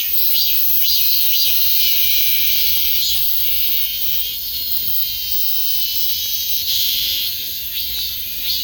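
Cicadas buzzing in a loud, high, steady chorus, with one swelling louder a little before the end.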